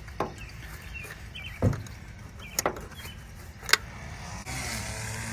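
Hand tools knocking and clinking against metal while working in a cramped engine bay, with four sharp knocks spread out over a few seconds. A steady low hum comes in about four and a half seconds in.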